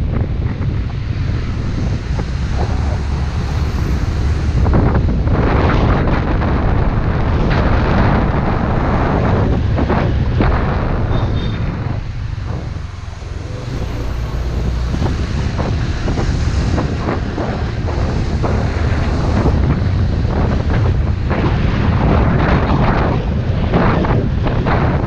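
Wind buffeting the microphone on a moving motorbike, over the rumble of the engine and road. It eases briefly about halfway through, then picks up again.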